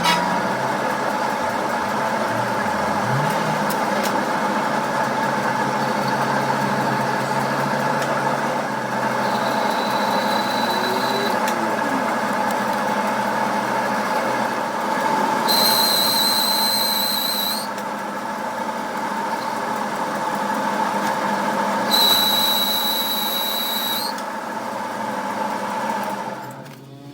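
A machine running steadily with a constant mid-pitched whine. A high-pitched squeal of about two seconds cuts in twice, and the machine winds down near the end.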